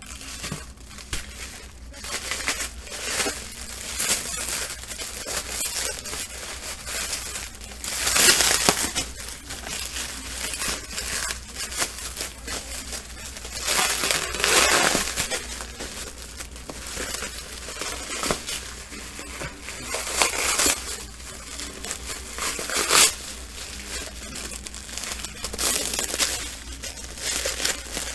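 Packaging being handled and torn open, crinkling and crumpling in irregular bursts, with a few louder rustles through the stretch.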